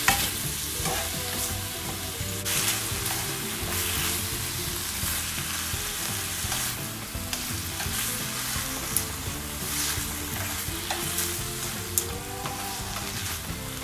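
Sliced beef, squid and shrimp sizzling in a hot nonstick pan as they are stir-fried, with a spoon and chopsticks scraping and clicking against the pan now and then. One sharper click comes about twelve seconds in.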